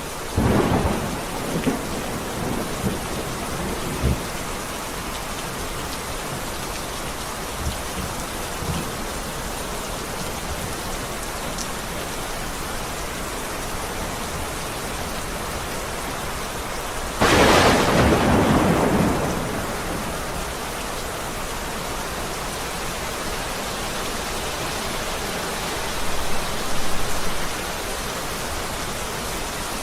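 Heavy rain falling steadily, with thunder: a crackle and rumble in the first few seconds, a loud sharp clap a little past halfway that fades over about two seconds, and a lower rumble near the end.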